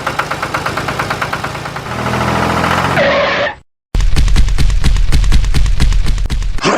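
Rapid mechanical clatter, roughly ten knocks a second, over a steady engine-like hum. It cuts off abruptly just past halfway, then returns louder, with a heavier rumble under fast knocking.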